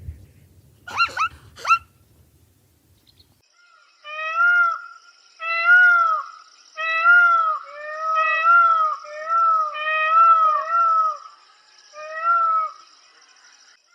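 An animal calling: three short sharp cries about a second in, then, after a pause, a run of about ten rising-and-falling cries in quick succession.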